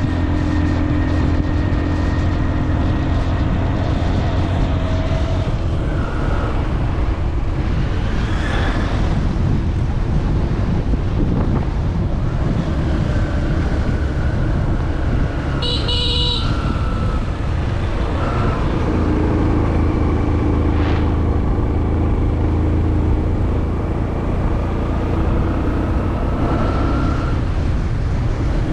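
A moving motor vehicle's engine runs steadily with road noise, its pitch shifting a little. A horn toots briefly about halfway through.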